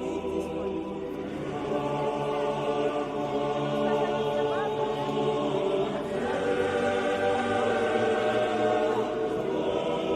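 A choir singing slow, sustained chords, with several voices holding long notes together and the chord changing every few seconds.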